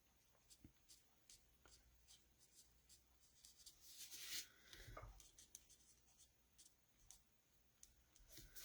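Faint scratching of an alcohol marker tip on cardstock in a series of short, irregular strokes, a little louder about four seconds in.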